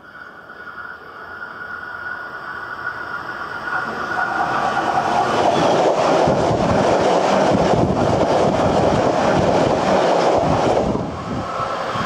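Hankyu electric train approaching and passing at speed close to the track: the rumble and wheel clatter build over about four seconds, stay loud for several seconds as the cars go by, then fall away about a second before the end.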